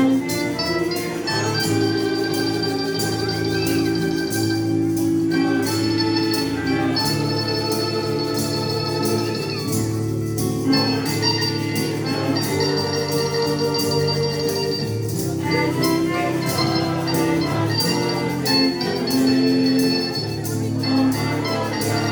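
An estudiantina ensemble playing a slow ballad: long held chords with an organ-like sustain over a steady, regularly strummed beat.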